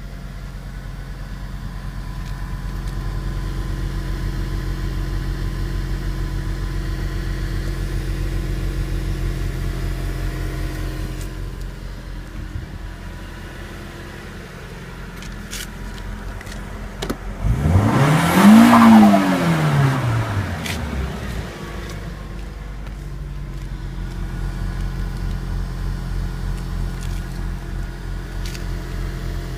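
Nissan Silvia's exhaust at a steady idle, given a single quick rev about two-thirds of the way through that rises sharply and falls back before settling to idle again.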